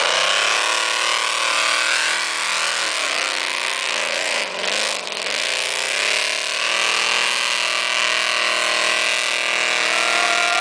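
Mud truck's old school bus engine running hard at high revs while bogging. The revs sag in the middle, climb back, and hold high and steady to the end.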